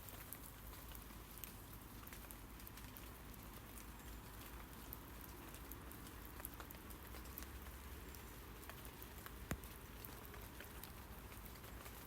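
Rain falling on tree leaves: a faint steady hiss with many small, irregular drop taps and one sharper tap about nine and a half seconds in.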